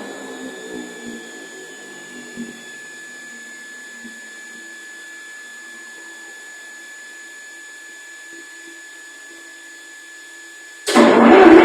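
A wood-gas-fuelled converted diesel engine goes quiet and winds down: its low running tones fade over the first few seconds, leaving a faint steady hum and a thin whine that falls slowly in pitch. Near the end a loud running sound cuts in abruptly.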